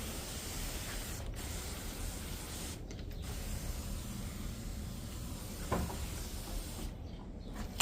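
Pump-up compression sprayer misting upholstery pre-spray cleaning solution onto fabric cushions: a steady hiss that breaks off briefly three times as the trigger is released.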